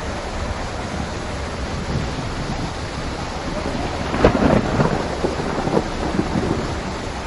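Steady rain falling, with a thunderclap about four seconds in that crackles and rumbles for about two seconds before dying back into the rain.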